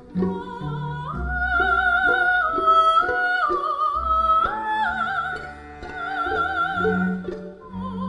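Female soprano soloist singing a slow melody in long held notes with wide vibrato, over an instrumental accompaniment of sustained low notes.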